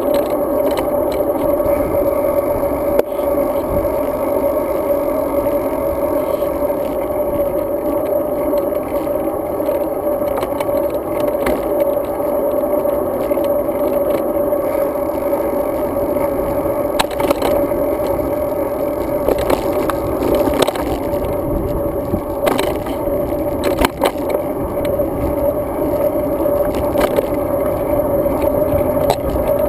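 Riding noise from a road bike picked up by a GoPro Hero 2: steady wind and tyre rumble, with scattered clicks and rattles from bumps in the road.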